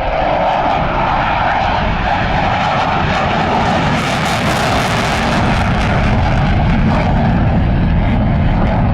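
Eurofighter Typhoon fast jet flying at display power, its twin EJ200 turbofans making a loud, steady rush of jet noise. The noise comes in suddenly and grows slightly louder about halfway through.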